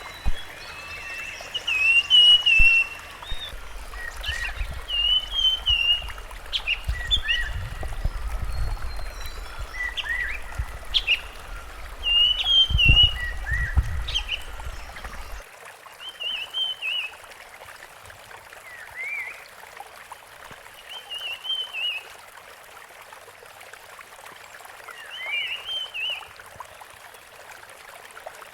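Rusty-fronted barwing calling: short, warbled phrases repeated every second or two over a steady background hiss. A low rumble runs beneath the first half and cuts off abruptly about halfway through.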